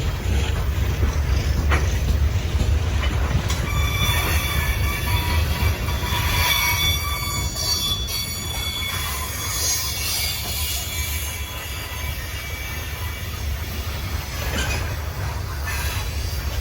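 Freight train rolling into a yard: a steady low rumble of wheels on rail, with high-pitched steel wheel squeal that rises a few seconds in and fades again.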